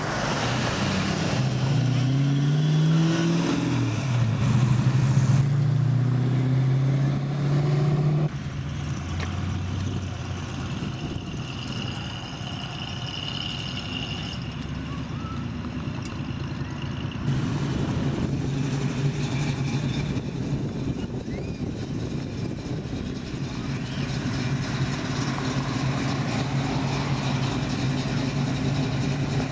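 Classic car engines running and revving as cars pull away, one after another. The pitch rises and falls during the first few seconds, and the sound changes abruptly twice, about a third and again about halfway through.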